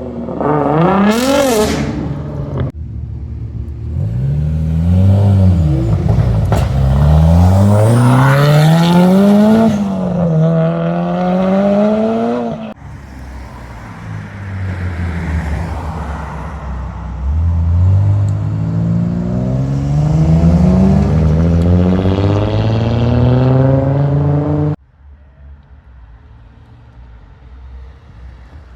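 Modified cars accelerating hard away one after another, their engines revving up through the gears, pitch climbing and then dropping at each shift. The sound cuts off abruptly a few times and is much quieter near the end.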